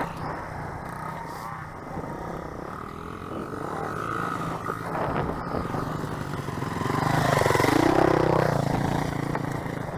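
Dirt bike engine running, swelling louder with its pitch dipping and climbing again about seven to nine seconds in.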